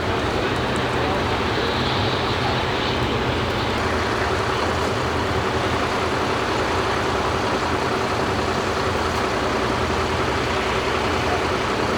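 Steady engine drone with road traffic noise, the low hum holding even throughout.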